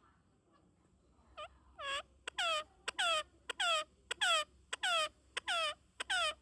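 Parrot calling in a quick series of about nine short squawks, one roughly every half second, each sliding down in pitch. The calls start softly about a second and a half in, then come loud, with short clicks between them.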